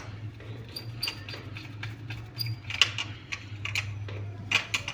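Small irregular clicks and taps of wires and connectors being handled and fitted to a class D amplifier board, over a steady low hum.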